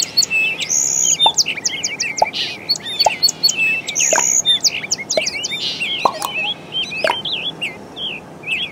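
Birds chirping and singing, with many quick, sharp calls overlapping throughout over a faint steady background hiss.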